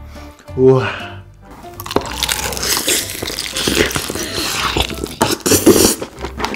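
Close-miked biting into and chewing a crispy fried chicken drumstick coated in creamy dipping sauce: crunching and wet chewing, thick with small crackles, starting about two seconds in.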